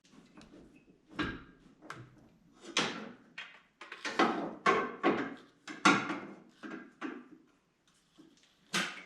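About a dozen short, sharp mechanical strokes, clacks and scrapes at irregular half-second intervals, as lifting gear works to hoist an engine out of a car on a strap. The strokes pause briefly near the end.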